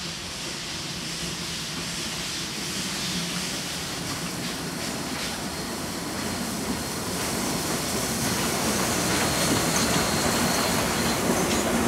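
A train rolling slowly through the station, growing steadily louder as it comes closer, with a few wheel clicks over rail joints. A thin high wheel squeal sets in about four seconds in.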